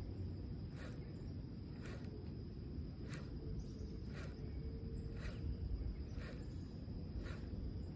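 Outdoor ambience: a steady high-pitched insect drone, with soft ticks about once a second, over a low rumble of wind or water.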